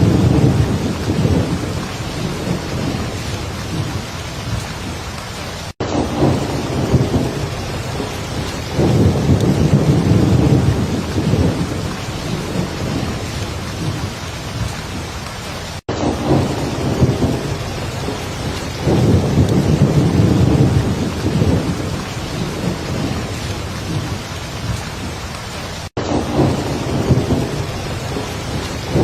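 Heavy rain falling steadily, with low rolling thunder rumbles swelling and fading every few seconds. The sound cuts out for an instant three times, about ten seconds apart.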